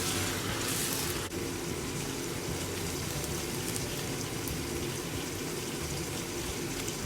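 Diced chicken and onion sizzling steadily in a hot frying pan, a little louder in the first second or so.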